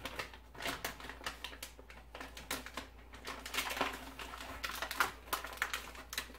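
A person chewing beef jerky, making a run of irregular, clicky mouth sounds several times a second.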